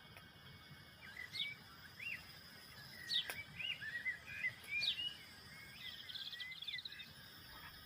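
A small bird calling: a string of short whistled chirps and pitch glides, with a quick trill about six seconds in, over a steady faint hiss.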